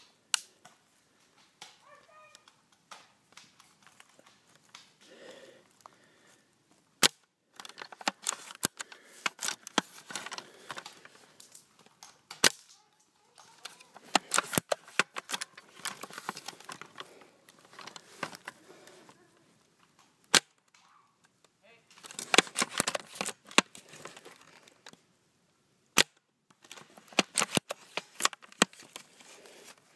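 Airsoft guns firing single sharp cracks every few seconds, between stretches of rapid crackling and rustling.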